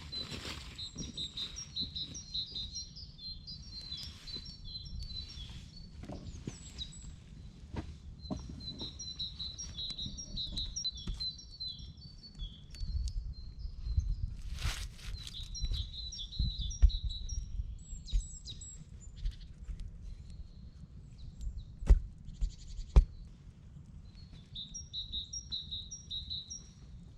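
A bird singing repeated phrases of quick, high chirps, each phrase lasting a few seconds, over a low rumble. Two sharp knocks come about two-thirds of the way through.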